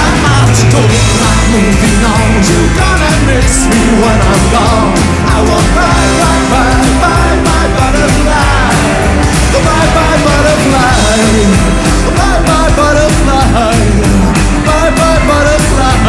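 Rockabilly band playing live and loud: a driving rock and roll beat with a wavering melodic lead line over it.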